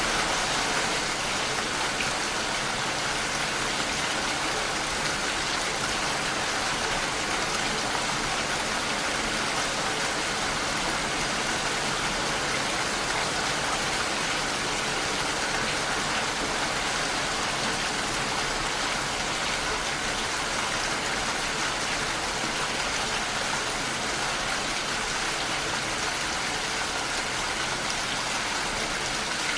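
Steady rain falling and pattering against a window pane, an even, unbroken hiss.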